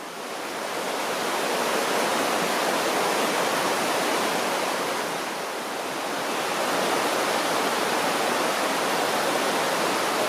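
Steady rush of water from a mountain stream, swelling up over the first couple of seconds and dipping slightly around the middle.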